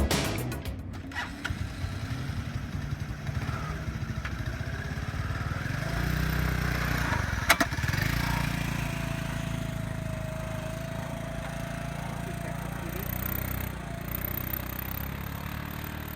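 The restored 1985 Honda Elite 250 scooter's single-cylinder four-stroke engine running, growing louder and fuller about six seconds in. A single sharp click about halfway through.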